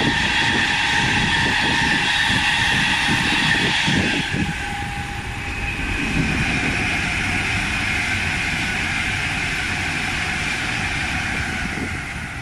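A passenger train running through the station on the main line: a rumble with a steady whine of several tones. The whine changes pitch about four seconds in as the train goes past, then slowly fades.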